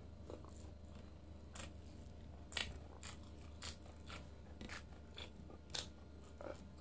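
Close-up eating sounds: chewing and scattered wet mouth clicks and smacks as grilled lamb chop meat is pulled apart by hand and eaten, the two loudest snaps about two and a half seconds and six seconds in, over a steady low hum.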